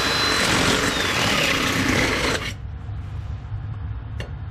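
Power tool motor running hard with a wavering whine, cutting off abruptly about two and a half seconds in; a low hum and a single click follow.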